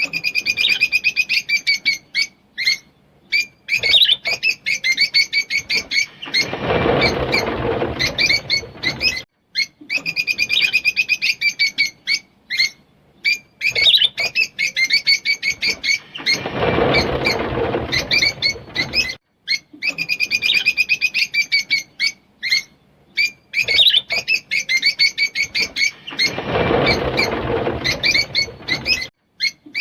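Rosy-faced lovebirds chirping and chattering in quick, high runs, with a harsher, noisier stretch of chatter three times, about every ten seconds, as the same passage repeats.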